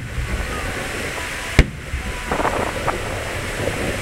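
A fireworks shell bursting with a single sharp boom about a second and a half in, followed by a few fainter crackles, over a steady background hiss.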